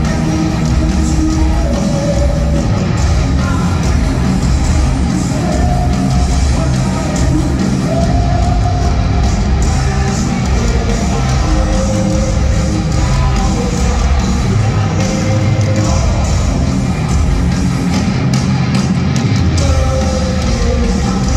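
Heavy metal band playing live at full volume: distorted electric guitars, bass and drums in a steady, dense wall of sound.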